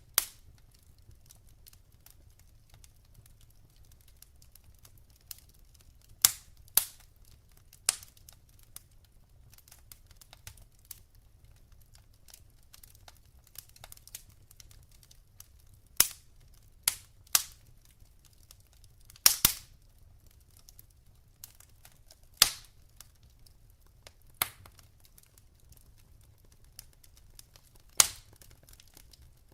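Burning logs in a wood fire crackling and popping: sharp single pops at uneven intervals, about a dozen, some in quick pairs, the loudest about two-thirds of the way in, over a faint low rumble of the flames.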